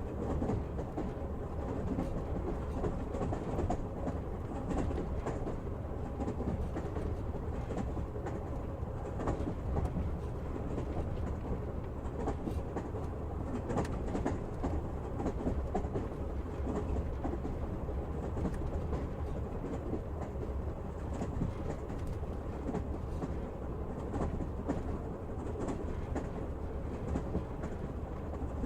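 Passenger train running steadily, heard from inside the carriage: a continuous low rumble of the wheels on the rails, with faint scattered knocks of the wheels.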